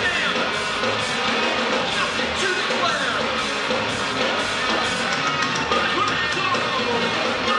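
Live noise rock band playing loud, dense guitar-driven music without a break, with guitar notes sliding up and down in pitch.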